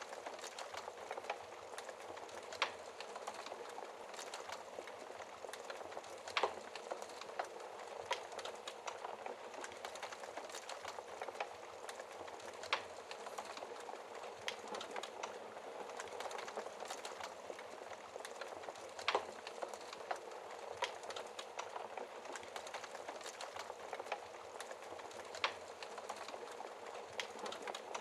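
Logs burning in a fireplace: a steady hiss and crackle with small clicks throughout and a handful of sharper, louder pops scattered through it.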